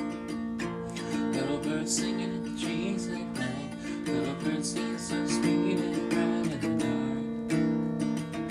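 Acoustic guitar strumming in a lo-fi folk song's instrumental passage.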